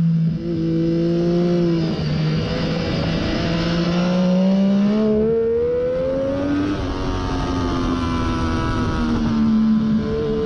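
Triumph Daytona 675 inline three-cylinder sport bike with a Hindle slip-on muffler, ridden hard on a track. The engine note climbs and drops with throttle and gear changes, with a break in pitch about five seconds in.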